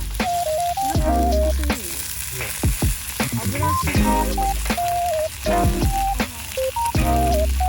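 Food sizzling as it fries, a steady hiss, with a stepped electronic melody and bass playing over it.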